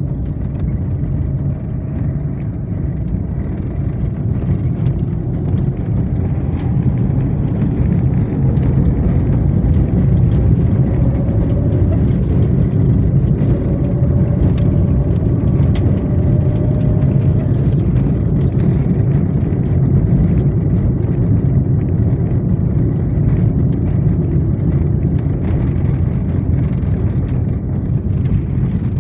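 A motor vehicle running on the road: a steady low rumble, with a faint engine note that rises slowly a few times in the first half.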